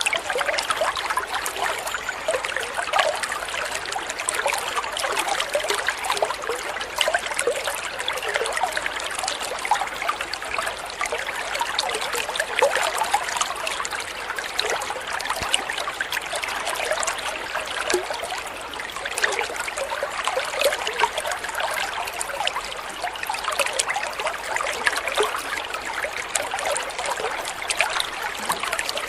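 Water trickling and splashing steadily, a continuous babble of small droplets and ripples.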